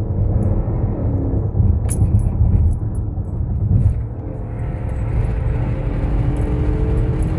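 Car engine and road rumble heard from inside the cabin while driving, with a steady engine tone that fades about a second in and returns about halfway through.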